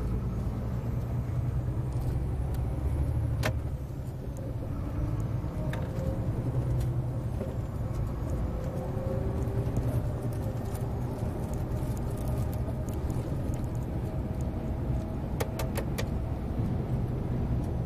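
Scania 143M 470 truck's V8 diesel engine running steadily, its pitch drifting a little. A sharp click sounds about three seconds in, and a quick run of clicks comes near the end.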